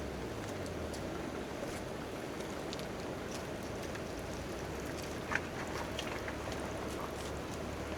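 Steady rain pattering on a tent tarp, with a few sharp pops scattered through it; the loudest pop comes about five seconds in.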